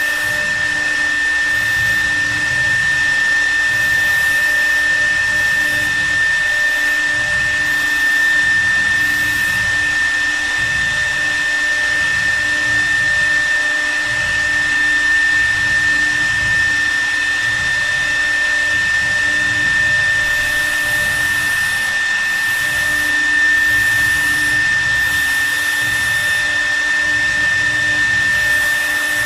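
CNC wood router's spindle running steadily with a constant high-pitched whine over a rushing noise, while carving wood.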